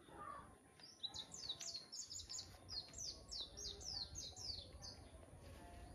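A bird singing a quick run of high notes, each falling in pitch, about four a second for some four seconds.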